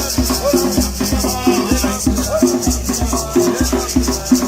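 Traditional Grenadian drumming: hand drums beating a steady repeating rhythm, with shakers rattling along and voices chanting.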